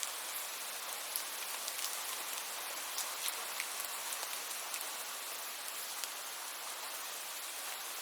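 Steady rain, a constant hiss with many individual drops ticking sharply through it.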